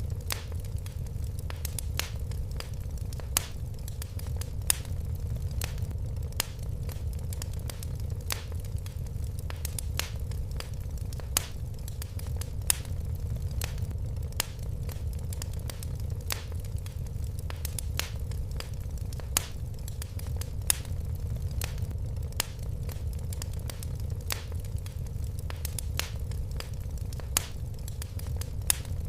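Fireplace fire crackling, with irregular sharp pops, several a second, over a steady low rumble.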